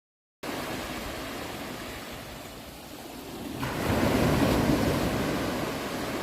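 Ocean waves washing onto a shore. The sound cuts in suddenly after a brief silence, then a wave swells louder a little past halfway.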